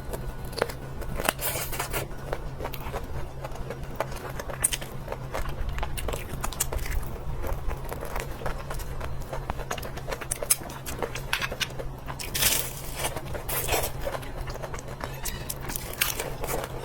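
Close-miked eating sounds: crunchy bites and chewing with irregular crackles and crinkling, over a steady low hum.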